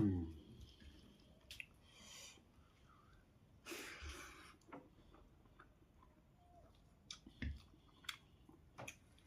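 Faint eating sounds: scattered soft clicks of chewing, with a short burst of noise about four seconds in and a few sharper clicks near the end.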